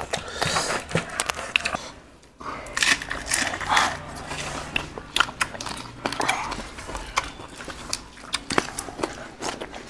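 Close-up eating sounds: chewing and crunching of boiled pork and raw lettuce and herbs, with many small wet clicks and smacks. A few cleaver knocks on a plastic cutting board come near the start.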